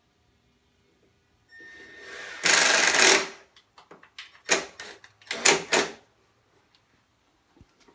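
Cordless drill driving a screw into the rack's support panel, running for about two seconds and getting louder as the screw bites, followed by two shorter loud bursts.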